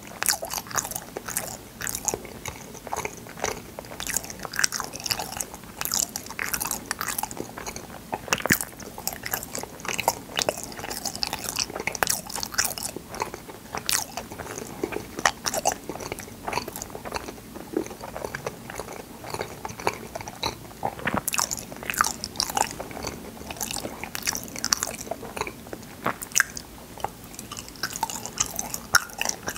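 Close-miked chewing and biting of fruit yanggaeng (firm sweet jelly), a dense, irregular run of small mouth clicks and smacks.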